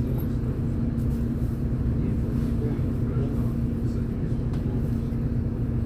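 MAZ-203 city bus driving, heard from inside the cabin: steady engine and running-gear rumble with a constant whine.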